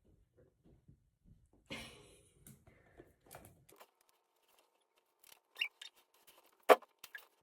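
Skincare products handled at close range: a string of light clicks and taps, a short rustle about two seconds in, and one sharp click about seven seconds in.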